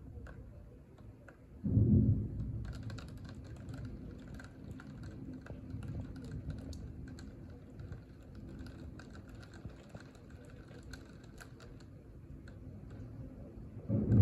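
A sudden loud clap of thunder about two seconds in, rumbling away over the following seconds, with another thunder crash starting near the end. Through the middle comes rapid, irregular light clicking and tapping.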